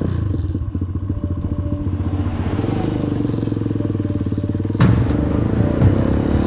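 Motorcycle engine running steadily, with rapid even firing pulses. About three-quarters of the way through, a sudden sharp hit comes in and a louder, busier sound takes over.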